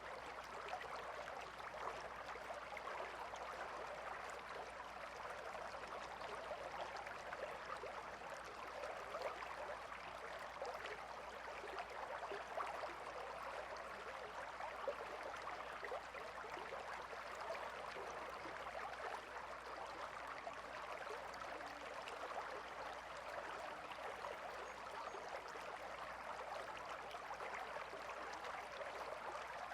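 River water flowing steadily, with a fine, even splashing rush.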